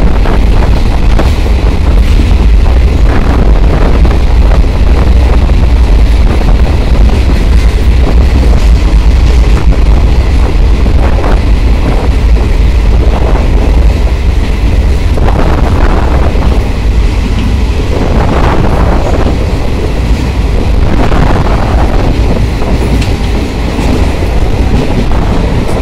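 Train running through a railway tunnel, heard from the open door of a moving coach: a loud, steady low rumble.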